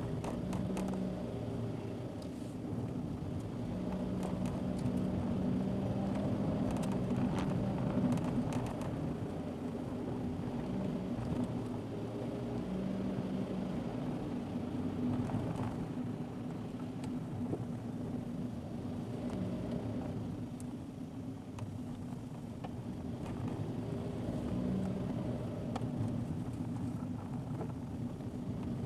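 A car's engine and tyre noise heard from inside the cabin while driving, steady with small rises and falls, with scattered light ticks and rattles.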